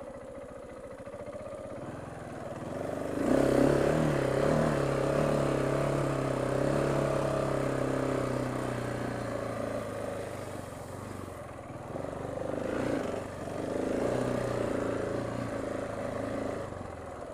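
KTM 690 Enduro R single-cylinder motorcycle engine pulling the bike up a grassy hill, ridden from the rider's seat. The throttle opens about three seconds in and the engine stays under load, easing off and opening up again a couple of times before dropping back near the end.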